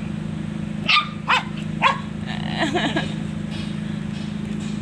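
A dog barking three short, sharp barks about a second in, then a brief wavering yelp, over a steady low hum.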